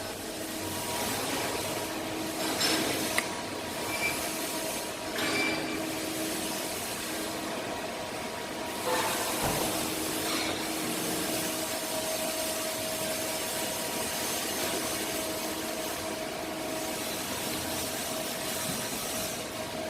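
Steady mechanical workshop noise with a faint hum, broken by a few short scraping and knocking sounds in the first half.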